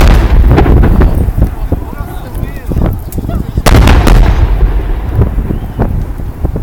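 Large aerial fireworks shells launching and bursting close by: heavy booms followed by crackling. The loudest volleys come right at the start and again about three and a half seconds in.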